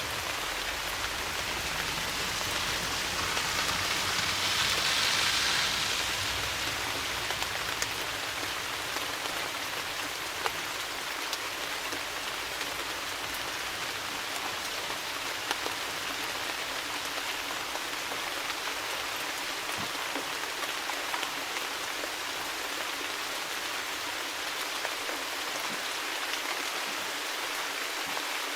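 Steady rain falling, with single drops ticking sharply on a surface. The rain swells briefly a few seconds in, then settles back to an even fall.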